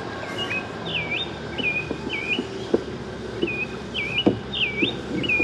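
A songbird singing two short bouts of clear whistled phrases, each phrase swooping down and up in pitch. A few light knocks sound in between.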